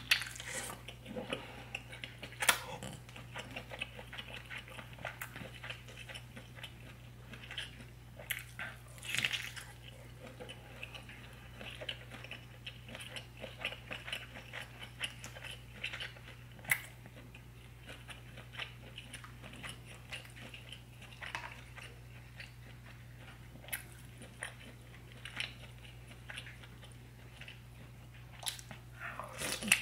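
Close-miked chewing and biting of sauce-drenched seafood boil, irregular wet mouth sounds with a few sharper, louder bites. A low steady hum runs underneath.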